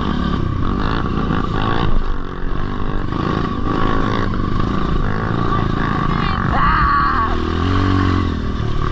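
Motocross bike engines running, with one engine revving up and back down about two-thirds of the way through.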